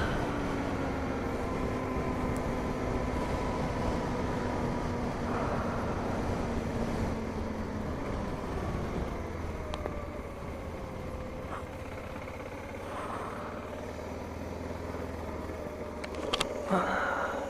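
BMW G 650 GS Sertao's single-cylinder engine running under way, its note falling slowly over the first eight seconds and then holding at a higher pitch. Steady low wind rumble on the microphone, with a few brief gusts, the largest near the end.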